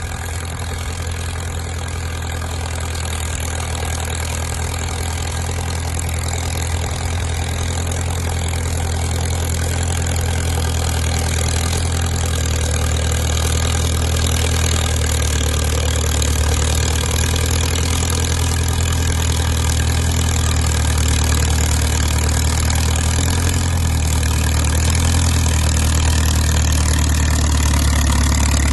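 Caterpillar crawler dozer's diesel engine running steadily with a deep, even hum, slowly growing louder as the machine works.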